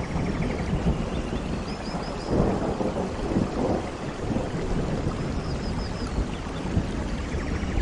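Thunderstorm: a low thunder rumble over steady rain, the rumble swelling about two and a half seconds in and rolling on. A few faint high chirps sound twice above it.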